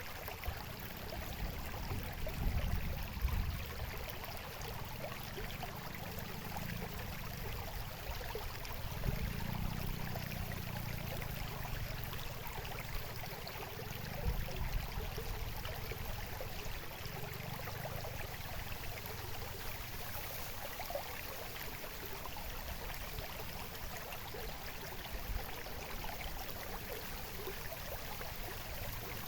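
Babbling stream water flowing steadily, an even rushing and splashing, with low rumbles swelling up a few times.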